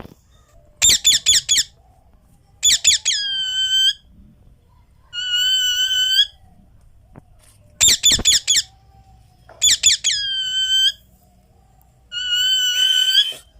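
Indian ringneck parrot calling loudly: about six calls with pauses between them. Some are rapid runs of short shrill notes, and others are long, steady whistles. Some runs end in a whistle.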